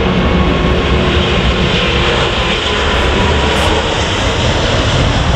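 Jet airliner engines running loud and steady: a wide, rushing rumble with a faint whining tone over it.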